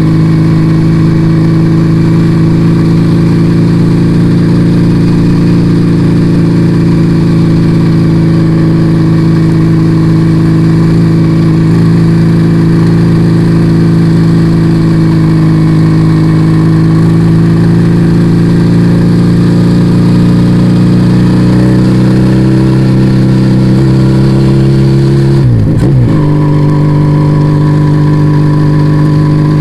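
Yamaha Vega ZR motorcycle engine running through an aftermarket Arrow exhaust while riding, a steady note that climbs slowly, then dips briefly a few seconds before the end and settles again.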